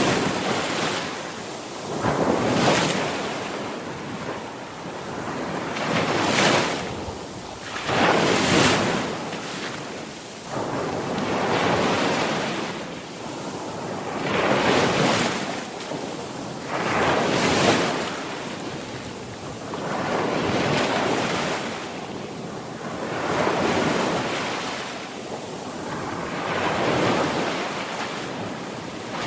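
Sea waves breaking and washing on the shore, the surf swelling and falling back about every two to three seconds in a steady rhythm.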